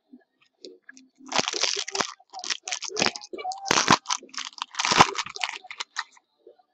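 Plastic packaging crinkling and crackling in a run of bursts as trading cards are handled, starting about a second in and stopping shortly before the end.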